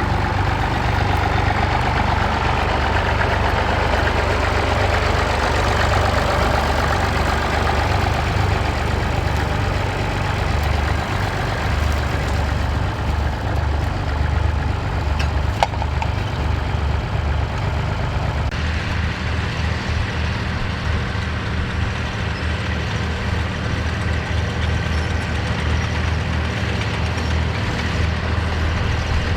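Massey Ferguson tractor engine running steadily while working a field. The engine note changes abruptly about two-thirds of the way through.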